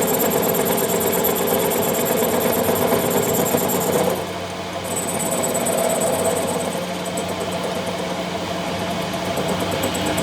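A machine running steadily, with a brief dip in level about four seconds in before it carries on.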